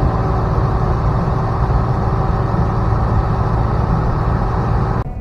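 Car engine running steadily, the sound unchanging until it cuts off suddenly near the end.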